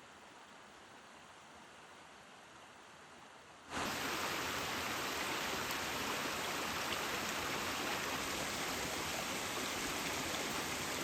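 A steady rush of flowing stream water cuts in suddenly about four seconds in, after a few seconds of faint hiss, and holds even to the end.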